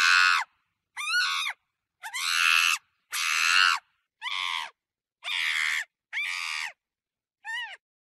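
Monkey screeching: eight shrill calls, each about half a second long, separated by short gaps, several with a pitch that rises and falls within the call.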